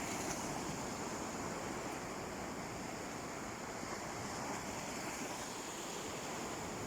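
Sea waves washing steadily onto a beach, with no single wave break standing out, and a steady high hiss over the surf.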